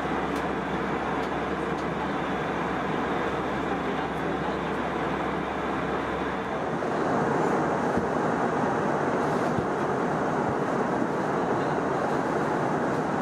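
Steady rushing cabin noise of an Airbus A321 airliner in flight. About six and a half seconds in, the deep rumble drops away and the rush gets slightly louder.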